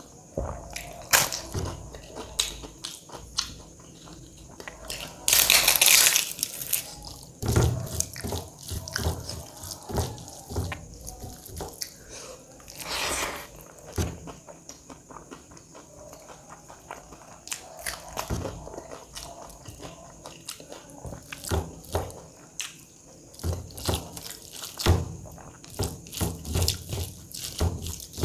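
Close-miked eating sounds: a person chewing mouthfuls of rice with dal and mashed potato, with small wet clicks and smacks, and a louder rough rustling burst about five seconds in that lasts about a second and a half.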